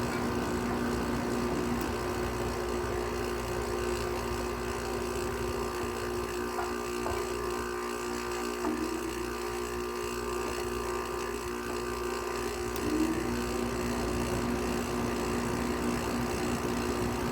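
Haier 5,200 BTU window air conditioner running with a steady hum and a faint hiss while it is not yet cooling.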